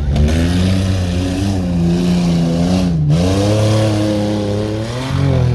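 Modified tough-competition truck's engine revving hard as it drives the course, its pitch rising and falling with the throttle, with a brief drop about three seconds in.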